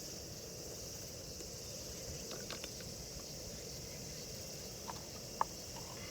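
Insects, crickets among them, chirring steadily as a high-pitched background in grassland, with a few short clicks, the sharpest about five seconds in.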